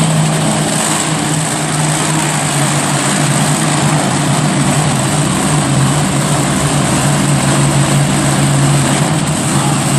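A monster truck's engine running loud and steady, holding an even pitch, over a dense wash of noise.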